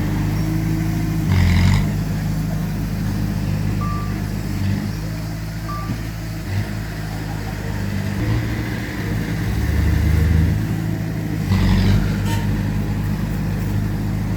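Diesel engines of heavy earthmoving machinery run steadily, with two short beeps in the first half. Two brief hissing bursts come, one near the start and one near the end.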